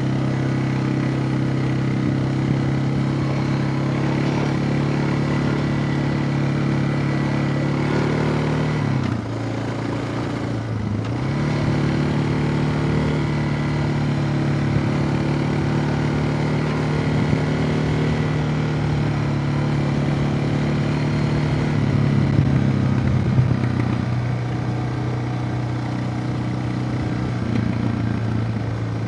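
Suzuki DR650's single-cylinder four-stroke engine running steadily while being ridden. About a third of the way through the revs briefly drop, as when the throttle is rolled off, then pick back up.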